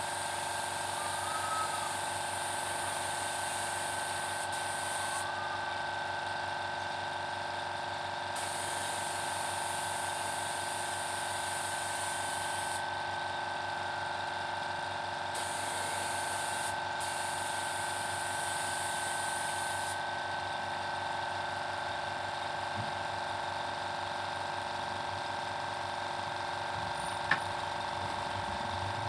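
Paint spray gun hissing in several bursts of a few seconds each, over a steady motor hum; a single sharp click near the end.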